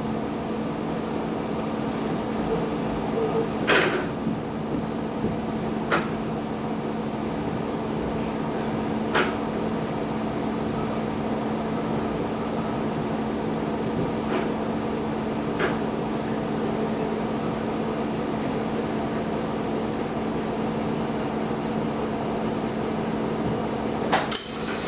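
Steady hum of a diesel railcar heard from inside the car, with a handful of sharp, irregular clicks and a louder clatter near the end.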